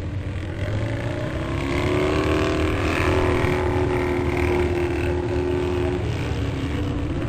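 Motocross motorcycle engines racing past, rising in pitch and growing louder over the first two seconds, holding steady at high revs, then dropping away about six seconds in.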